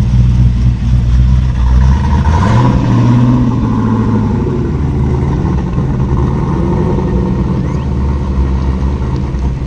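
A car engine running with a deep, steady note. Its pitch climbs about two seconds in, then settles back to a lower, wavering run.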